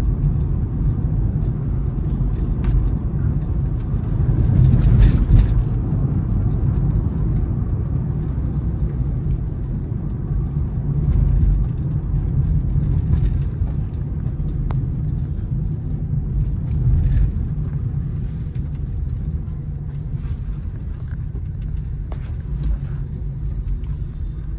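Honda City car driving on a wet road, heard from inside the cabin: a steady low rumble of engine and tyres. There is a brief louder surge about five seconds in, and scattered light knocks throughout.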